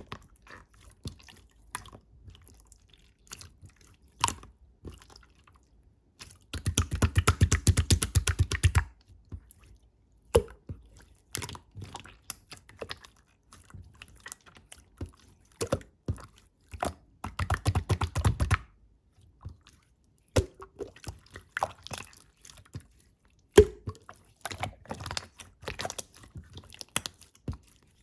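Clear slime being squished and poked by hand, making wet, sticky clicks and small pops. Twice, about a quarter of the way in and again just past the middle, the pressing turns fast and the clicks come in a rapid run.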